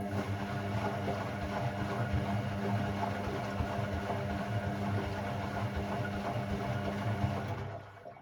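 Hoover Sportswear 1300 AI130 washing machine's motor running with a steady hum and the rustle and slosh of the load, cutting out near the end.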